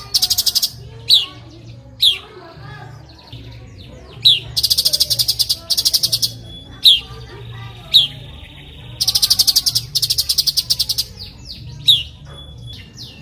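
Cucak cungkok singing: single sharp whistles that fall in pitch, about six of them, alternate with three long, fast rattling trills. A faint steady low hum runs underneath.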